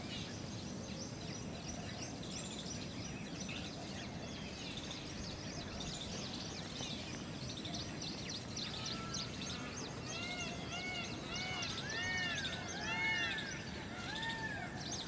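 Birds chirping and calling over a faint, steady outdoor background, with a run of short, arched whistled notes repeating about twice a second in the last third.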